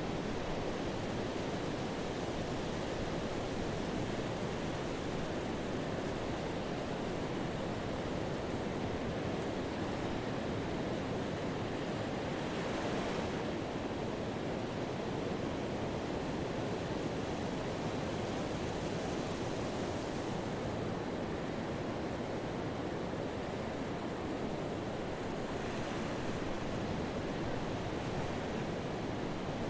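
Pacific surf breaking on a sand beach: a steady wash of waves with foam running up the shore, swelling with a brighter hiss of breaking water a few times.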